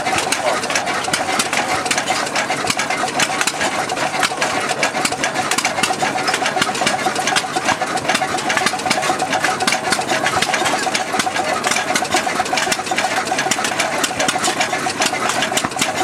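17 hp Ruston Type CR single-cylinder diesel engine running steadily, with a quick, even clatter of sharp knocks from its exposed valve gear.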